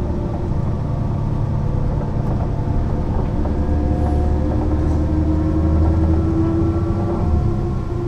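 Mercedes-Benz O 405 NÜ city/intercity bus's diesel engine running under way, a steady deep rumble with an engine tone that rises gradually as the bus gains speed, and a brief drop in the deep rumble near the end.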